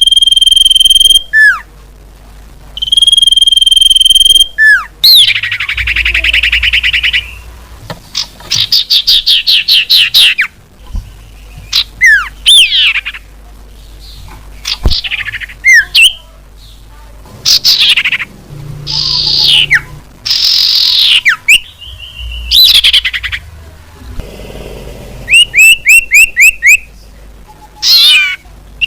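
Common iora (cipoh) song and calls played loud as a bird-lure recording. It alternates long steady whistles, quick down-slurred notes and fast rattling trills, phrase after phrase with short pauses between.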